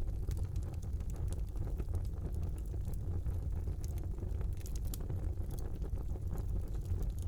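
Wood fire burning in a brick fireplace: a steady low rush of flames with scattered small, sharp crackles and pops.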